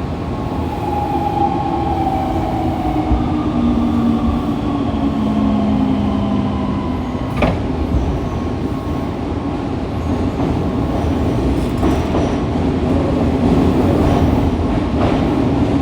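Fukuoka City Subway 2000 series car with a Hitachi GTO-VVVF inverter: the inverter's motor whine falls in pitch as the train brakes, over a constant rumble of wheels on rail. About seven and a half seconds in there is a single sharp click, then the running rumble continues.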